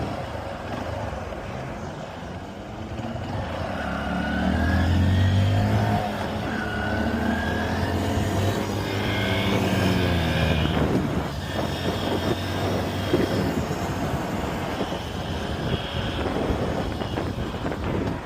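Motorcycle engine running on the move, its pitch rising and falling with throttle and gear changes, with wind noise on the microphone.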